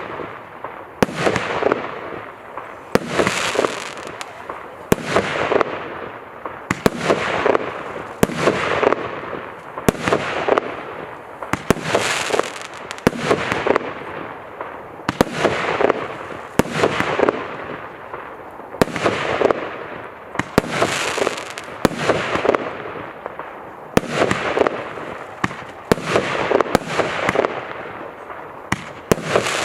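Fireworks cake battery ('Kondor' OC8350) firing its shots in quick succession, about one a second: each launch is a sharp bang followed by the hissing, crackling burst of twinkling and crackling stars.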